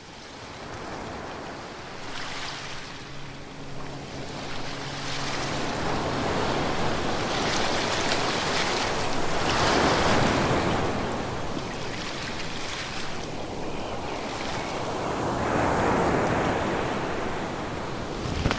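Ocean waves surging and breaking, fading in over the first few seconds and then swelling to two peaks, about ten and sixteen seconds in. A faint low steady hum lies underneath for a few seconds early on.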